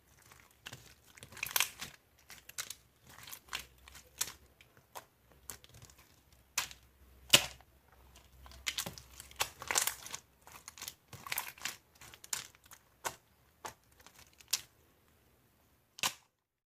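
Irregular crinkling and crackling of plastic packaging being handled, with many sharp crackles of uneven loudness and the loudest about seven seconds in.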